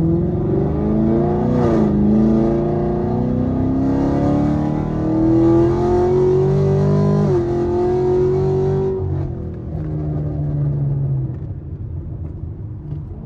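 Chevrolet Camaro SS's 6.2-litre V8 accelerating. Its pitch climbs, dips briefly about two seconds in and drops sharply at an upshift about seven seconds in. It then holds steady before the throttle eases off and the engine quietens near the end.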